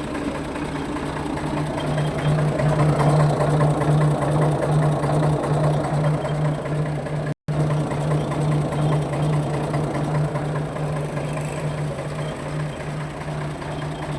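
Ford 4610 tractor's three-cylinder diesel engine running at a steady speed with an even, pulsing beat. It grows louder about two seconds in and eases back after the middle, where the sound cuts out for an instant.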